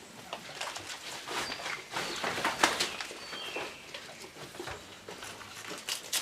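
Jamunapari–Saanen cross goats feeding on leafy branches: irregular rustling and crackling of leaves, busiest a couple of seconds in, with a few short high bird chirps.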